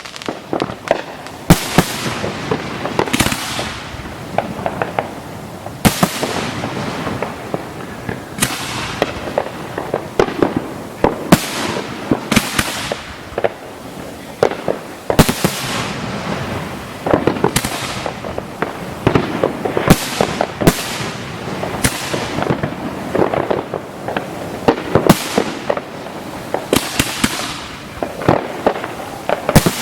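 Aerial fireworks display: a steady barrage of shell bursts booming about once a second or faster, over continuous crackling.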